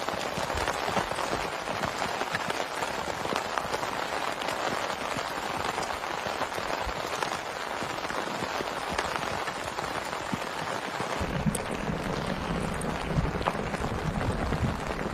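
Heavy rain falling steadily, with many separate drop hits in a dense hiss. About two-thirds of the way through, a low rumble joins in underneath.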